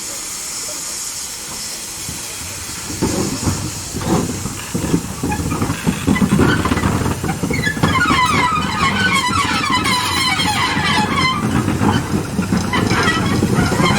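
Steam locomotive hissing steam, then starting to move off: heavy exhaust beats begin about three seconds in, about one a second at first, then come faster and merge into steady running.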